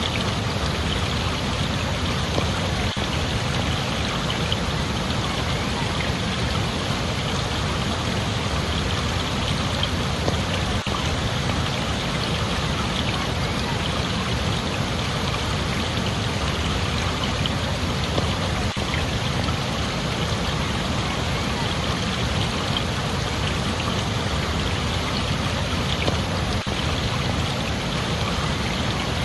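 Steady, unbroken sound of running water.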